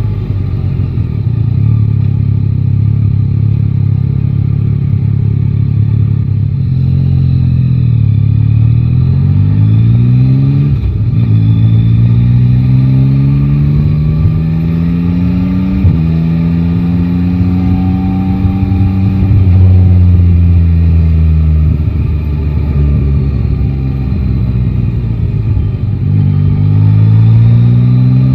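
Yamaha Tracer 9 GT's inline three-cylinder engine heard from the rider's seat. It runs at a steady low note at first, then pulls away: the pitch climbs, drops sharply at a gear change and climbs again. It then eases off with a falling note, and accelerates once more near the end.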